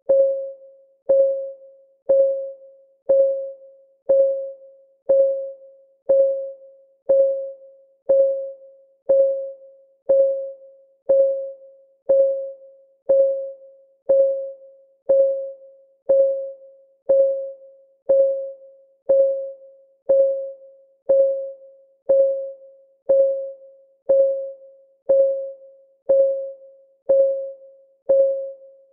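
Clock-ticking sound of a countdown timer: one short, pitched tick every second, each ringing briefly and fading before the next.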